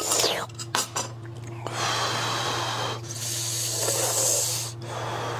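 Close-miked mouth noises from someone eating: a few clicks at the start, then two long hissing draws of air, each over a second long, over a steady low hum.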